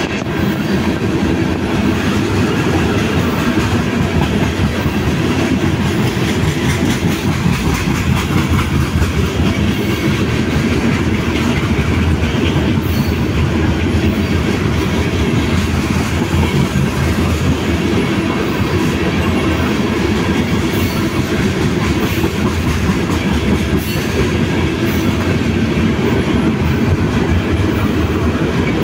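Freight train of tank cars rolling past, a steady heavy rumble of steel wheels on rail with irregular clacks over the rail joints.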